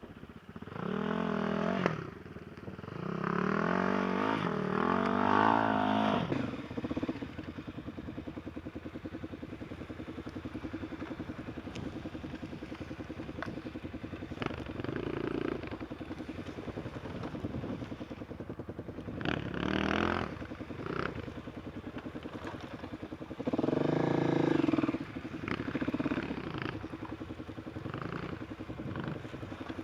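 Enduro motorcycle engine revved up and down several times, then idling steadily, with a few louder revs later on.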